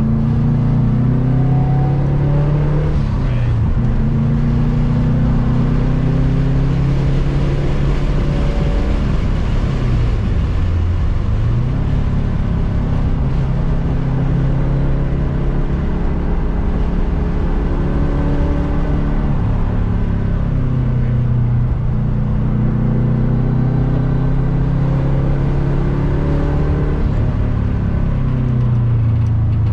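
Subaru EJ257 turbocharged 2.5-litre flat-four in a swapped Impreza 2.5RS, driven hard on a race track: engine pitch climbs for several seconds at a time, then drops sharply as it lifts and slows for corners, and climbs again, over steady wind and road noise.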